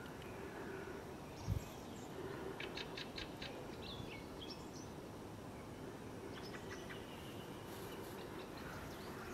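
Small birds chirping in quick series of short notes, a couple of seconds in and again about seven seconds in, over a steady background hum. A single low thump about a second and a half in.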